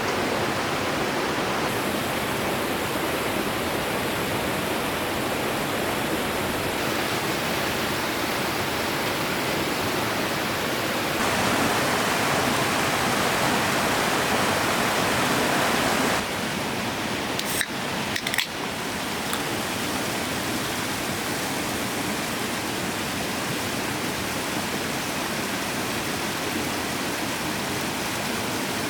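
Steady rushing of a forest stream, its tone and level shifting abruptly a few times, with a few sharp clicks about 17 to 18 seconds in.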